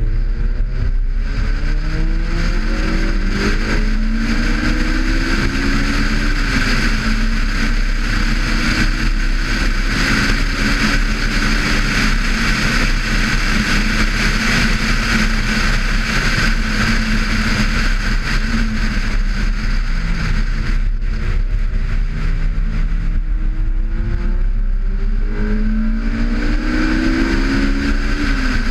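Honda S2000 AP1's high-revving 2.0-litre VTEC four-cylinder engine driven hard on track. Its pitch climbs through the revs and drops at each upshift, holds steady at speed along the straight, then climbs again and drops with a shift near the end, over a constant rush of wind and road noise.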